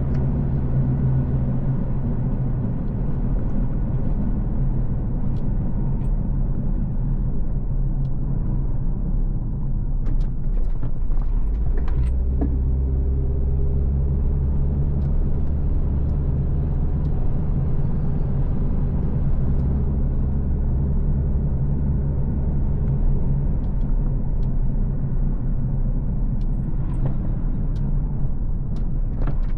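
Car driving on a road: steady engine and tyre rumble, with a few light knocks and rattles around the middle and near the end. The engine note drops to a lower, stronger hum about twelve seconds in, then shifts again a few seconds before the end.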